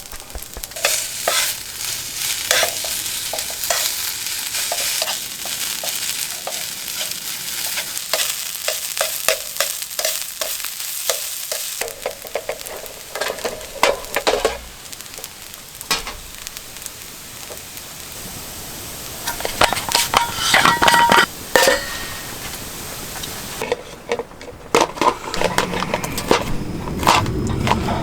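Food sizzling in a hot pan while it is stirred, with scraping and metallic clinks of a utensil against the pan, loudest about twenty seconds in.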